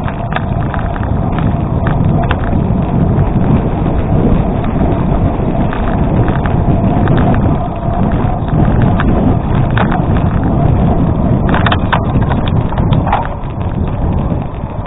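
Bicycle tyres rolling over a gravel road: a steady crunch and rumble with wind on the microphone, and scattered sharp clicks of stones and bike rattle, several close together about twelve seconds in.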